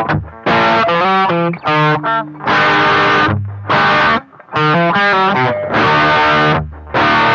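Gretsch electric guitar playing a riff of chords in short phrases, each chord cut off briefly before the next.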